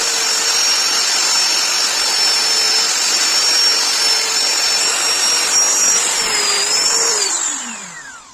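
Electric power tool running steadily at high speed with a high whine, then switched off about seven seconds in and winding down, its pitch falling as it stops.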